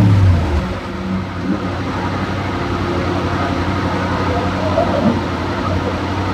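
2013 Yamaha R1 inline-four engine with an aftermarket exhaust, its revs falling away at the end of a dyno pull and settling about half a second in, then idling steadily.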